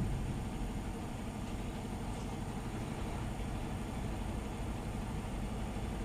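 Idling truck engine: a steady low rumble with no change.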